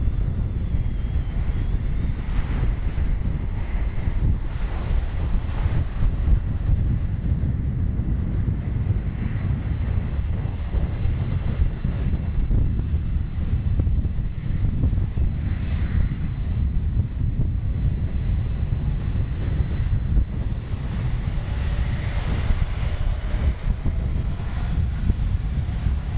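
Jet engines of a Boeing 737-800 (CFM56-7B turbofans) rumbling steadily, with a faint high whine that rises a little near the end.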